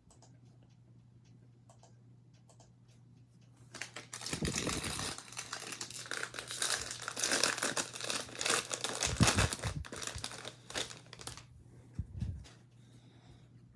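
Crinkly foil wrapper of a trading-card pack being torn open and crumpled, starting about four seconds in and going on for several seconds, with a soft bump near the end.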